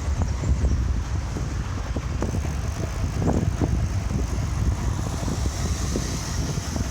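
Steady wind rumble on the microphone of a moving rider's camera, mixed with road and traffic noise, with a few faint knocks.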